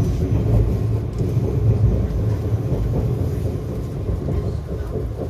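Izu Kyuko 2100 series electric train running on the line, heard from inside its lead car: a steady low rumble of wheels and running gear that eases slightly in level toward the end.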